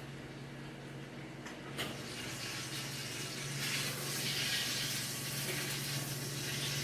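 Hot cooking grease sizzling and popping in a skillet, starting after a knock about two seconds in and growing louder.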